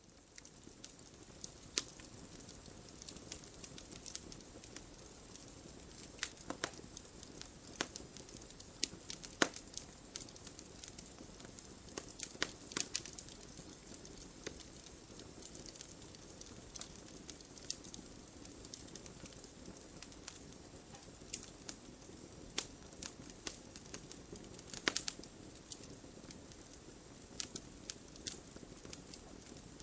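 Wood fire crackling: irregular sharp pops and snaps over a soft, steady hiss, with a few louder snaps scattered through.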